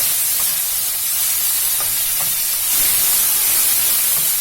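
Chopped tomatoes, onion and green chillies frying in hot oil in a pan, a steady sizzle with a few faint ticks, as the tomatoes soften.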